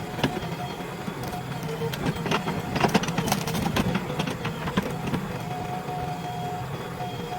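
JCB 3DX backhoe loader's diesel engine running steadily, with sharp metallic clanks and knocks, thickest around the middle. A steady whine comes in for a second or two about two-thirds through.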